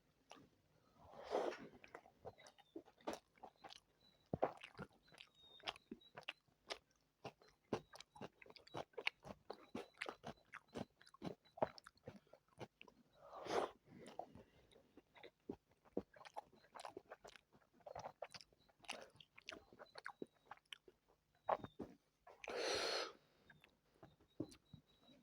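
Close-miked chewing of chicken biryani: wet mouth smacks and many small irregular clicks. Three louder breathy noises come near the start, in the middle and near the end.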